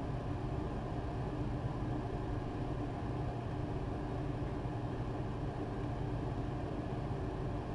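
A steady low mechanical hum with hiss, even throughout and unbroken by any sudden sound.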